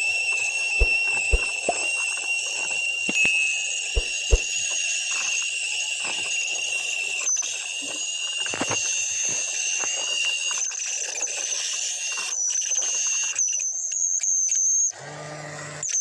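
The small motor of a homemade vacuum cleaner running at high speed: a steady high-pitched whine with air hiss and a few knocks, stopping near the end.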